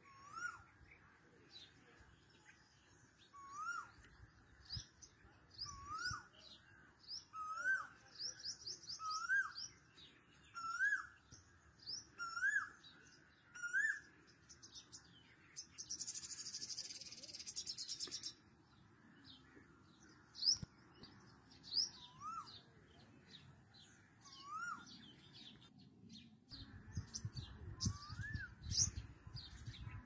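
Several birds chirping and calling: a short rising call repeated every second or so, with quicker high chirps over it. About halfway through, a dense high buzzing trill lasts about two seconds, and a low rumble comes in near the end.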